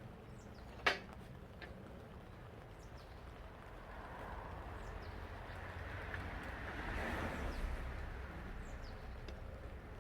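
One sharp click or knock about a second in, with faint short bird chirps and a broad noise that swells and fades in the middle.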